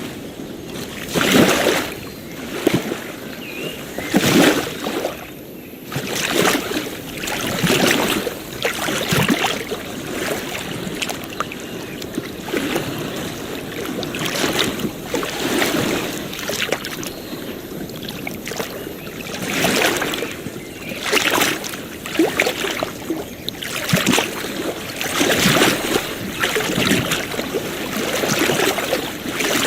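Small waves lapping and washing on a beach, in irregular splashy surges every one to three seconds.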